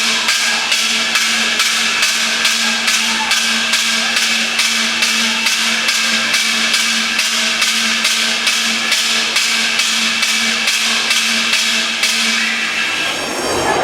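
An alarm bell ringing in quick repeated strokes, about three a second, over a steady ring, as the signal for an earthquake drill. It stops about a second before the end.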